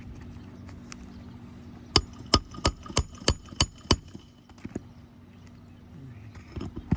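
Hammer driving a roofing nail into a shingle: seven quick, sharp strikes about three a second, starting about two seconds in.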